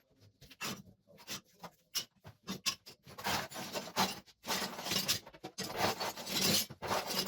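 Irregular scraping and rubbing strokes of a hand tool on a hard surface, short and spaced at first, then longer and more continuous from about three seconds in.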